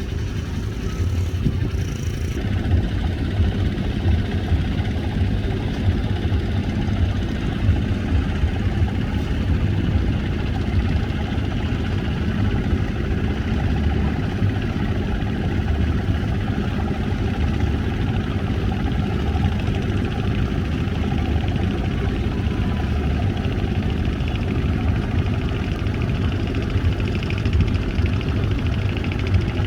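Engines of a fast passenger boat running steadily, a constant low rumble with no change in speed.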